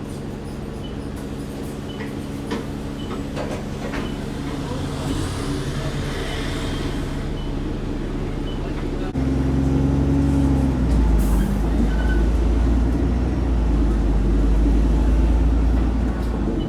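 Alexander Dennis Enviro 400 double-decker bus engine running, heard from inside the bus; about nine seconds in it suddenly gets louder with a deep rumble, as under acceleration.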